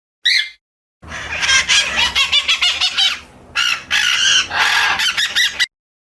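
Birds calling: one short call, then a dense run of overlapping calls lasting about four and a half seconds that cuts off suddenly.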